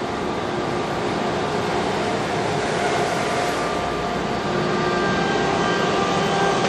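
A passenger train running into or past the station platform: a steady rumble and rush of wheels on rail with thin sustained squealing tones, growing a little louder.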